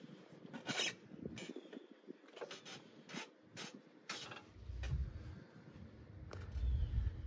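Mechanical clicks and scraping, like parts being handled and worked, then a low steady rumble that begins about four and a half seconds in.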